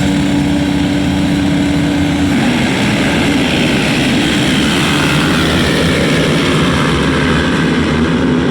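Dirt bike engines running and revving on a motocross track. A steady engine drone for the first couple of seconds, then pitches rising and falling as the bikes accelerate and shift.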